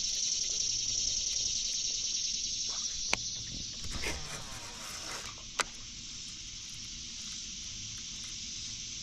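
A steady, high-pitched drone of insects in the waterside trees, with two sharp knocks a few seconds apart.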